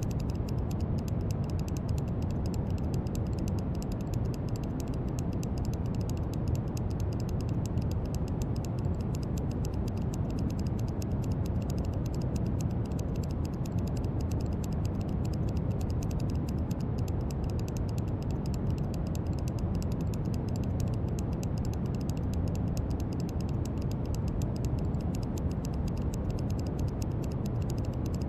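Steady brown noise, a deep even rumble-hiss weighted toward the low end. Faint, fast clicking runs through the high end.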